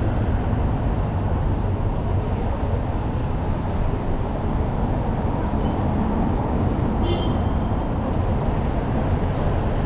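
Steady city street noise with a continuous low traffic rumble, and a brief high chirp about seven seconds in.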